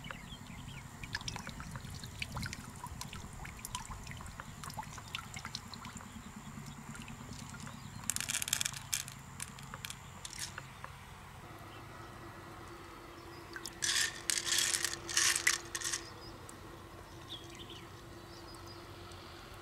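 Water trickling and dripping, with small clicks throughout. Two louder bursts of pouring water come about eight seconds in and again for a couple of seconds around the fourteen-to-sixteen-second mark.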